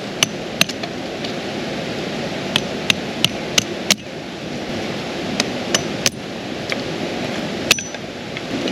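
Steady rush of a creek, with sharp, irregular clicks and taps over it, about fifteen in all, one near the end ringing briefly.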